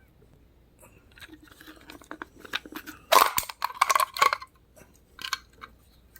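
A die-cast toy's plastic display case being opened: sticker seals peeled and the clear plastic cover worked off, giving a run of crinkly crackles and clicks, loudest from about three to four and a half seconds in.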